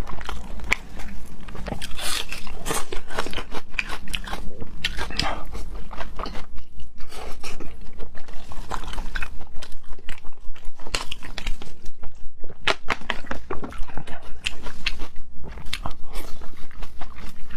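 A person chewing and biting food close to the microphone: clicking, crunching mouth sounds that fall into a steady rhythm of about three chews a second.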